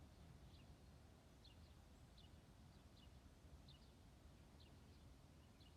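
A small bird chirping faintly, short falling notes repeated roughly once a second, over a faint low rumble.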